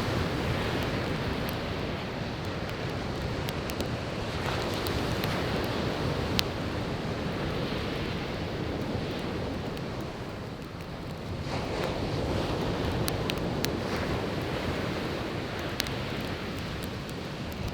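Surf washing onto the beach in a steady rushing wash, easing off and then swelling again with a new wave about two-thirds of the way through. Scattered sharp pops and crackles of burning firewood sound over it.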